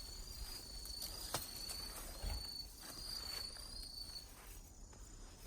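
Insect trilling steadily at a high pitch, fading out about four seconds in. There is a sharp click about a second and a half in and a low bump just after two seconds.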